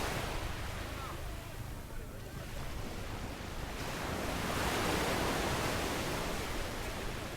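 Sea waves washing up the beach: a steady hiss of surf that swells, eases off and swells again, loudest about five seconds in, with a low wind rumble on the microphone.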